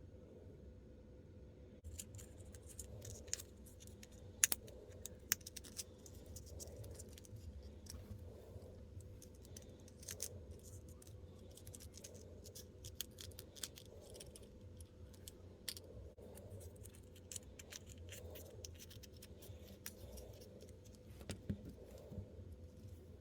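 Close-up handling of small plastic miniature pieces and their packaging, with irregular light clicks, taps and scrapes and a faint steady hum underneath.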